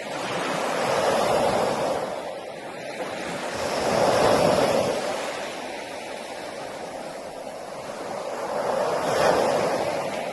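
Sea waves breaking on a beach, the surf swelling and washing in three times, about a second in, around four seconds and around nine seconds, with a steady wash of surf between.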